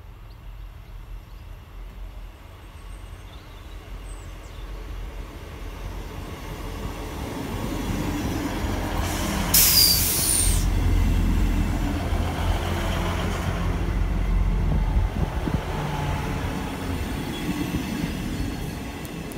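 GWR Class 158 diesel multiple unit approaching and passing at speed: underfloor diesel engine drone and wheels on rail grow steadily louder, with a sudden sharp rush of noise as the front passes about ten seconds in, then a steady run of wheel and engine noise as the carriages go by.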